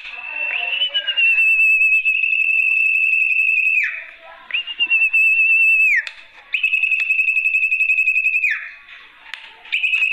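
Sertu (zepo) bird lure call: long, high whistled notes with a slight quaver, each held steady and ending in a quick downward slide. The notes repeat about four times with short gaps between them.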